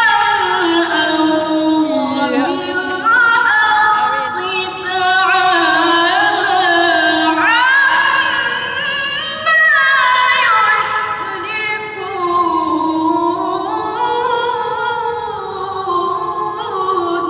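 A woman's voice reciting the Quran in melodic tilawah style, holding long ornamented phrases that rise and fall in pitch.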